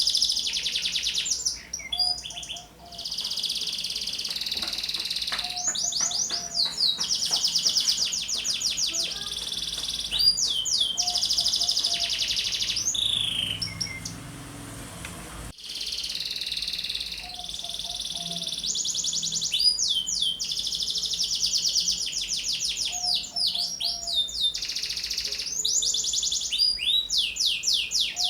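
Domestic canary singing lively and at length: long runs of fast trills and rolling, sweeping phrases, with a short lull about halfway through before the song resumes.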